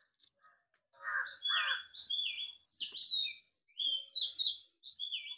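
A small bird chirping: a string of short whistled notes, each falling in pitch, about two a second, starting about a second in. A lower two-part call sounds with the first of them.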